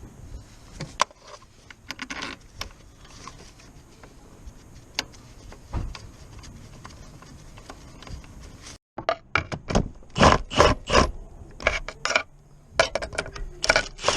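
Metal hand tools and car parts being handled: scattered clicks and knocks, becoming a dense, louder run of clattering after a brief break about nine seconds in.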